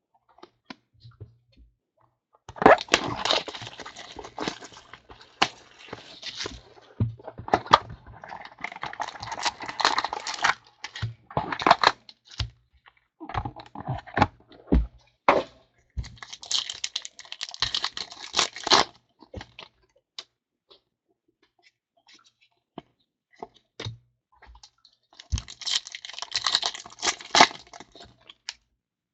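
Trading card packs being opened and gone through: wrappers crinkling and tearing, and cards clicking and sliding against each other, in several bursts of a few seconds with short pauses between them.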